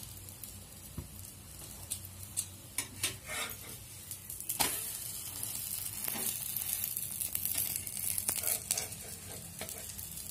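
Egg-dipped bread omelette sizzling in oil on a flat griddle (tava), with a steady hiss. A metal spatula scrapes and taps against the pan a few times.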